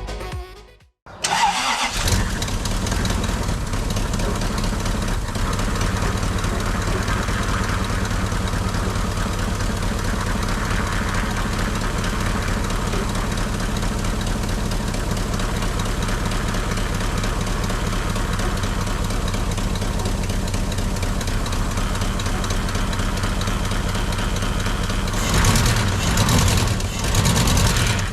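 Lexus 1UZ-FE V8 engine starting about a second in and running at a steady idle through a temporary home-built exhaust, getting louder for a few seconds near the end. The owner believes the exhaust and the manifold gaskets are leaking.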